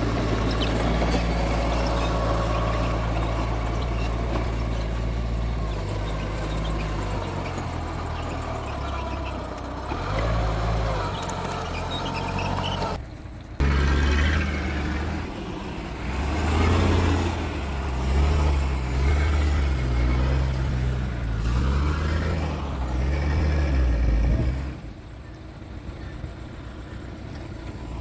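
Mitsubishi G2 bulldozer's diesel engine working, its note rising and falling with the load. It drops out for a moment about halfway through, runs louder and more unevenly for a while, then falls quieter near the end.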